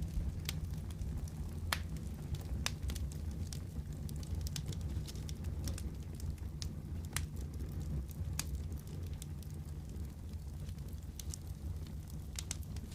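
Wood fire crackling: irregular sharp pops and snaps, a few every second or two, over a steady low rumble.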